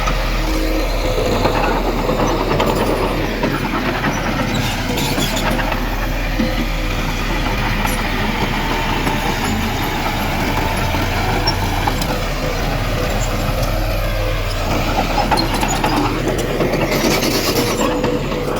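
Heavy diesel earthmoving machinery running steadily, a constant engine drone with a steady whine over it. A short hiss comes near the end.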